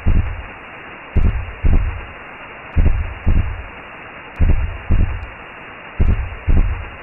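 Recreated womb sound: a slow, steady heartbeat of low double thumps, about one pair every second and a half, over a constant whooshing hiss.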